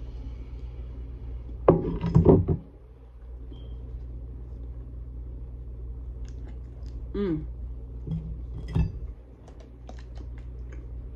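Close-up eating sounds from a bite of a steak-and-egg sandwich on French bread: a loud burst of clicks and crackles about two seconds in, then wet chewing clicks and a short closed-mouth 'mm' about seven seconds in. All of it sits over a steady low hum.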